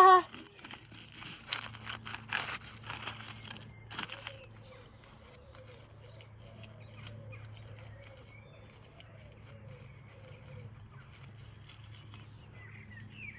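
A run of crunching, clattering knocks lasting about four seconds, then a steady low hum with faint bird chirps near the end.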